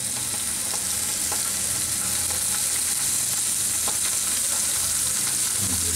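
Onions, chillies and ginger-garlic paste sizzling steadily in hot oil in a nonstick frying pan while a slotted spatula stirs them, with a few light scrapes and taps of the spatula. The sizzle is the water from the ginger-garlic paste cooking off.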